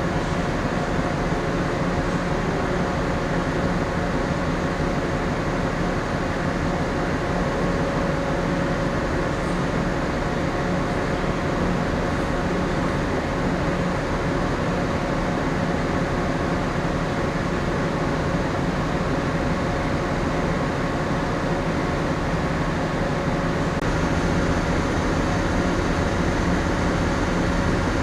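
Steady hum of the second Ogasawara Maru's onboard machinery and ventilation while the ship lies moored, a broad rumble with a few steady tones through it. It gets slightly louder, with some higher tones added, about four seconds before the end.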